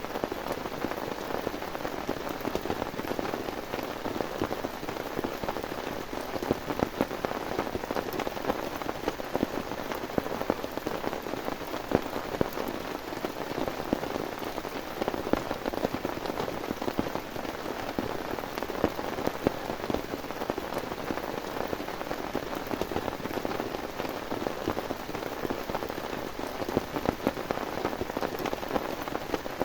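Heavy rain falling steadily, with dense close drop hits on a surface and no let-up.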